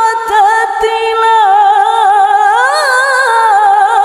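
A woman's solo voice in melodic Quran recitation (tilawah), drawing out one long ornamented note with quick wavering turns. The pitch rises a little before 3 s and settles back.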